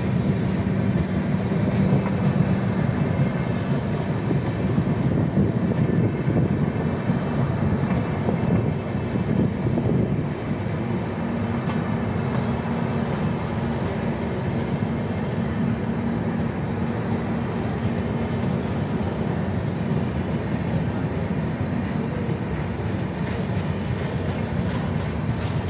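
Indian Railways passenger express's coaches rolling past close by, a steady, loud rumble of wheels running over the rails.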